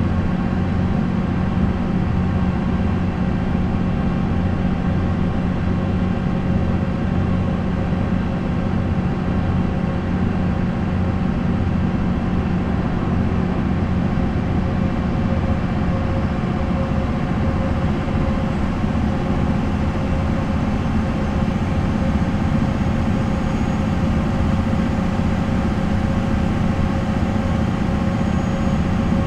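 MAN NL 263 bus's D28 six-cylinder diesel engine running at a steady, unchanging speed, an even low hum with no revving or gear changes.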